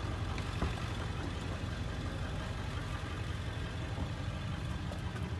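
A vehicle engine idling steadily, a low continuous rumble, with a few light clicks over it.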